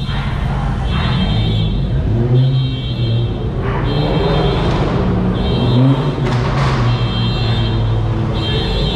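Car engines rumbling, with music playing loudly over them at a steady, repeating beat.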